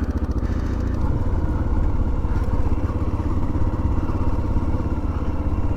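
Motorcycle engine running steadily at low speed with a rapid, even beat of firing pulses.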